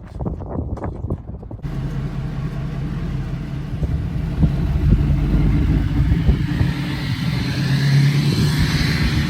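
Wind buffeting the microphone, then an abrupt change about a second and a half in to a vehicle engine running steadily with wind and road noise, growing a little louder later on.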